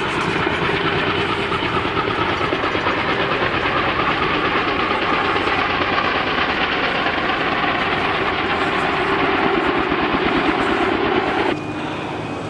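Logging helicopter's rotor and turbine engine running loud and steady, a fast rotor chop over a heavy engine roar. Near the end the sound drops abruptly to a quieter, steady hum with a thin whine.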